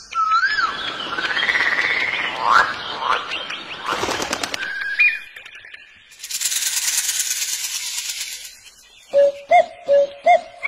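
A run of different animal and bird calls, one after another: about four seconds of chattering with whistled notes sliding up and down, a short whistle, a steady high hiss lasting about two seconds, then short, evenly spaced calls near the end.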